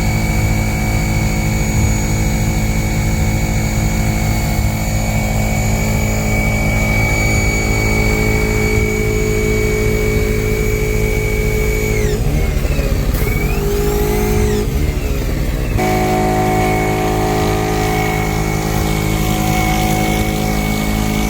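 Electric pressure washer (Portland 1750 PSI) running while spraying, over the steady running of a portable generator's engine. About twelve seconds in, the pitch sags and wavers for a few seconds, then settles steady again.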